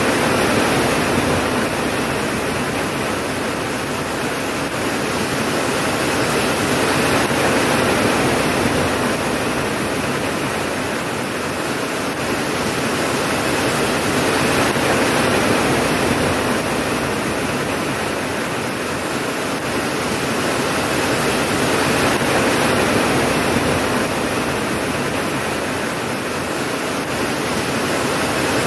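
Steady heavy rain, a dense even hiss that swells and eases slowly every seven or eight seconds, with no thunder.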